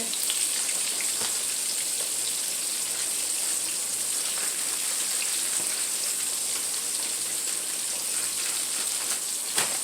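Mustard-seasoned chicken wings frying in hot oil: a steady sizzle with small crackles.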